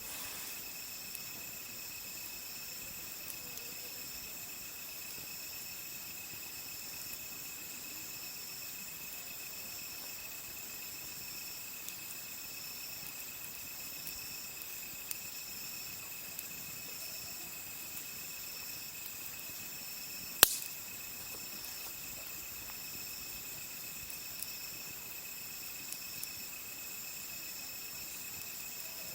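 Crickets and other insects singing steadily at several high pitches, one of them pulsing about once a second. A wood campfire gives a few faint crackles and one sharp pop about twenty seconds in.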